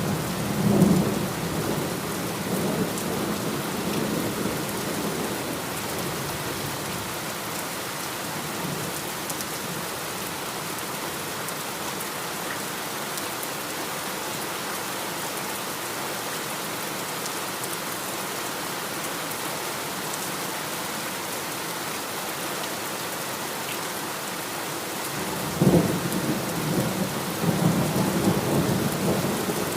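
Steady heavy rain with thunder: a rumble dies away over the first few seconds, then a sudden thunderclap comes about 26 seconds in and is followed by rolling rumbles.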